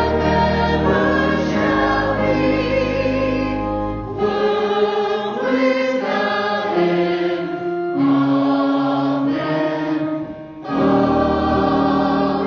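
Church choir singing a sacred piece with sustained instrumental accompaniment. The low accompaniment drops away about four seconds in, leaving mostly the voices, and comes back strongly after a brief dip shortly before the end.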